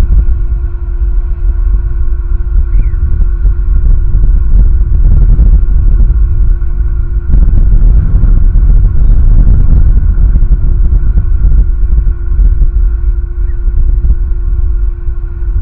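Strong wind buffeting the eagle-nest cam's microphone: a loud, continuous low rumble that gusts harder about halfway through, with a faint steady tone underneath.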